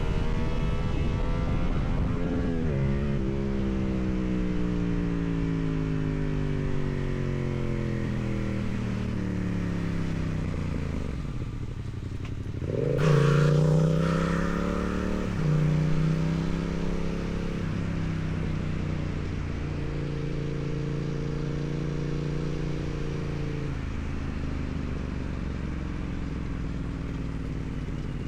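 2016 Yamaha MT-07's 689 cc parallel-twin engine running through its stock exhaust under riding. The engine note falls slowly for about ten seconds as the bike slows. Just before halfway it rises sharply in a loud burst of throttle, steps once more, and settles into a steady cruise.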